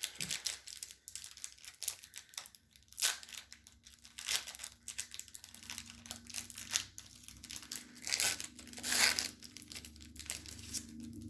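A trading card pack wrapper being torn open and crinkled by hand: a run of short crackling rustles, loudest about three and about nine seconds in.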